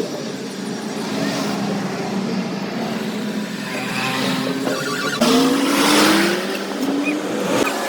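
A motor vehicle running, its pitch rising about five seconds in.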